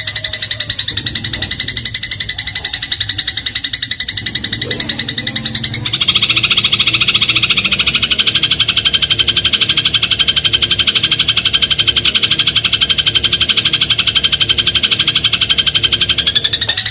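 Eurasian tree sparrow (burung gereja) calls in a fast, even, unbroken stream of sharp high chirps, looped as a song-tutor recording. About six seconds in the call changes to a slightly different phrase reaching a little lower in pitch.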